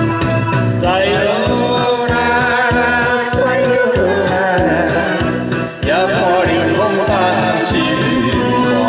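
Group of voices singing along to a karaoke backing track with a steady drum beat and keyboard; the singing comes in about a second in and pauses briefly between phrases near the middle.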